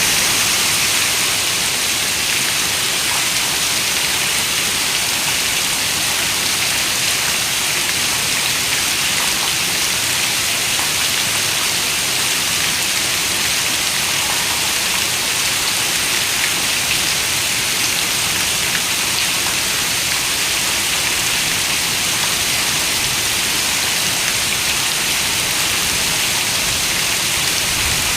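Heavy rain falling on a window: a steady, even hiss of drops that does not change.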